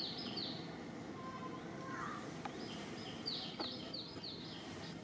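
A songbird repeating short, high, downward-sliding notes in a quick run, about three a second; one run trails off just after the start and another comes about three seconds in, over a steady outdoor background hiss.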